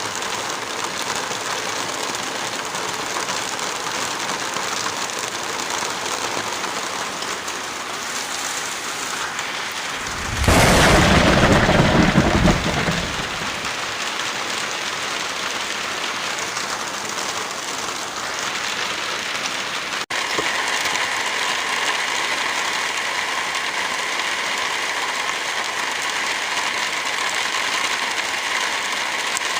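Heavy rain falling steadily, a dense even hiss. About ten seconds in, a loud low rumble swells for about two seconds, and at about twenty seconds the rain cuts abruptly to a slightly different, steadier hiss.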